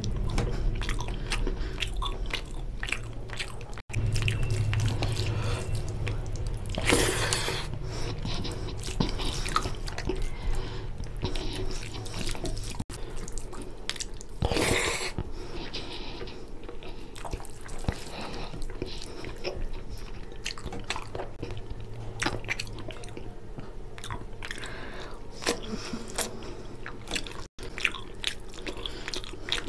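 Close-miked eating: wet chewing and biting of fish curry and rice eaten by hand, with many small mouth clicks. There are two louder, longer noises about seven and fifteen seconds in.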